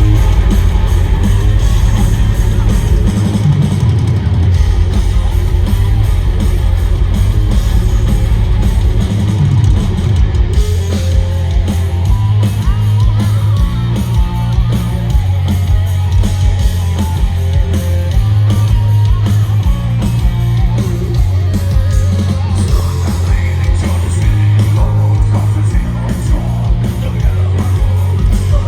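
Heavy metal band playing live: distorted electric guitars over bass and a heavy, driving drum kit, loud and continuous.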